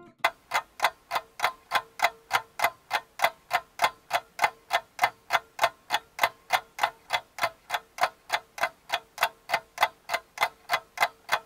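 Rapid, even mechanical ticking like a clock or timer, a little over three ticks a second, with a faint steady tone underneath.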